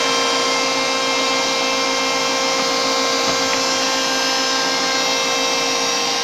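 Electric wood planer motor running steadily without cutting, a constant whine.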